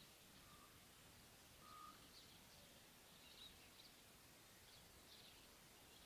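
Near silence with faint, scattered chirps of distant small birds, and two short, faint whistled notes about half a second and two seconds in.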